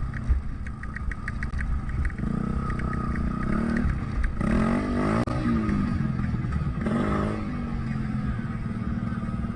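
Dirt bike engine running, the revs rising and falling, most strongly near the middle and again about seven seconds in.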